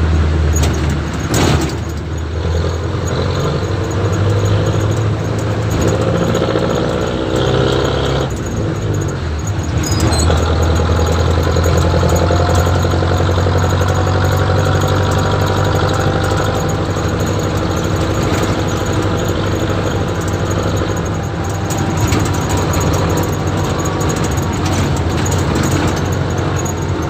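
Jeepney's diesel engine idling steadily, its note changing briefly about eight to ten seconds in.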